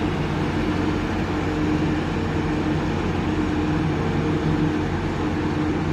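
Steady low drone of a towboat's diesel engines running, with a constant hum that holds the same pitch throughout.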